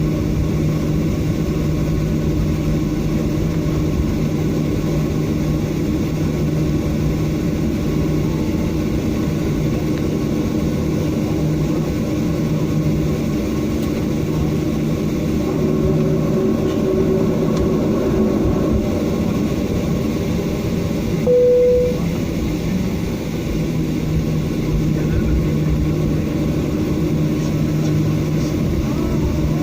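Steady cabin drone of a Boeing 737-800 on the ground after landing: its CFM56 engines and air-conditioning running with a low hum. A short single tone sounds about twenty seconds in.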